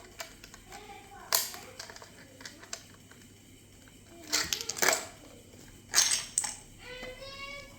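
Plastic Lego bricks clicking and clattering as pieces are handled and dug through, in a few separate bursts of rattling.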